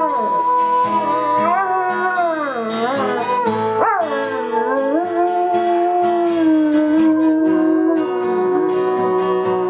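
A dog howling along to music, with long, drawn-out howls that slide up and down in pitch.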